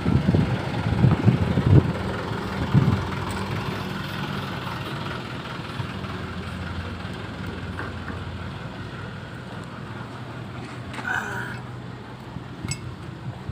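Komatsu PC200-7 excavator's diesel engine running steadily at idle, with a few knocks in the first three seconds and a short higher-pitched sound about eleven seconds in.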